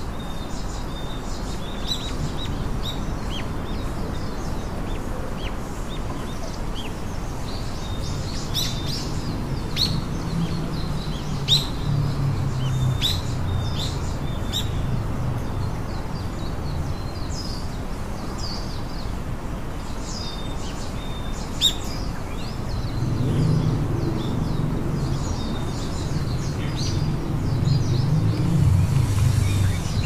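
Small birds chirping, with many short, high chirps scattered through, busiest in the middle, over a low background rumble that swells in the second half. Two sharp clicks stand out about ten seconds apart.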